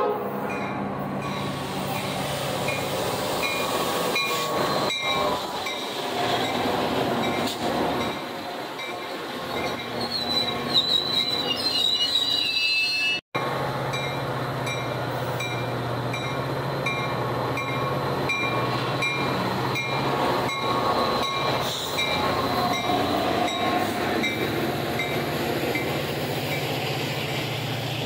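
Metra commuter train, a diesel locomotive hauling bilevel passenger cars, rolling past with steady wheel and rail noise and a low engine hum. High wheel squeal rises about ten seconds in, and the sound breaks off for an instant just after thirteen seconds.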